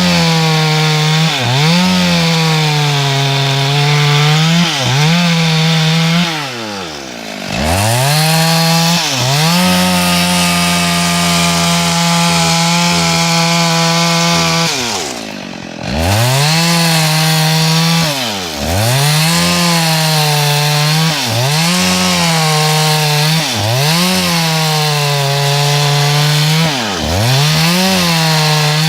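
Two-stroke chainsaw cutting a log into boards. Its engine note sags and recovers every second or so as the chain bogs in the wood. Twice the throttle drops off briefly and the saw revs back up.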